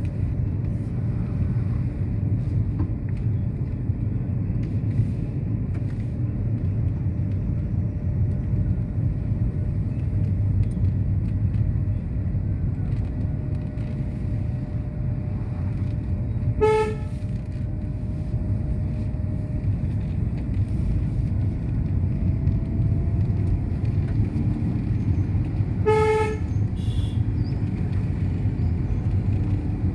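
Steady low road-vehicle rumble, with a vehicle horn giving two short honks, about 17 seconds in and again about 26 seconds in.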